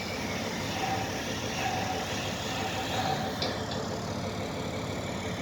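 An engine idling steadily, with two light clicks about three and a half seconds in.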